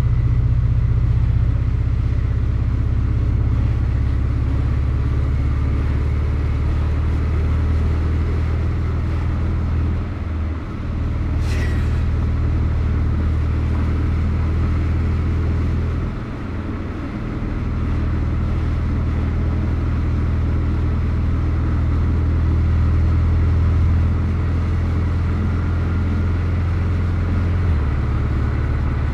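Porsche 718 Boxster's turbocharged flat-four engine pulling steadily on the road, over a haze of tyre and road noise. The engine note dips briefly twice, about ten seconds in and around sixteen seconds, and shifts pitch near the end. A single short click sounds about eleven seconds in.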